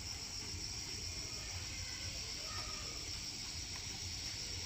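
Insects chirring steadily in one high, unbroken drone, over a low rumble of background noise.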